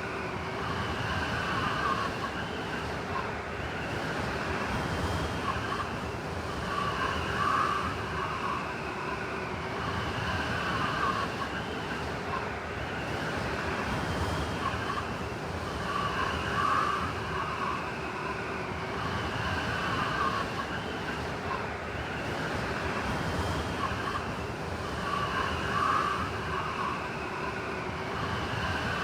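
Blizzard wind blowing steadily with a whistling howl that swells and eases in gusts about every nine seconds.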